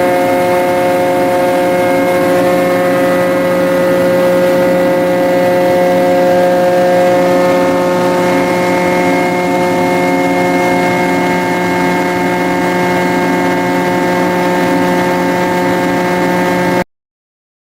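Ship's engine running at a constant speed: a steady drone carrying several fixed whining tones. It stops abruptly near the end.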